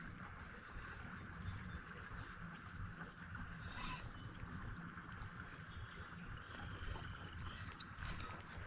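Faint, steady insect chorus: a high continuous trill over a low rumble, with a few light clicks.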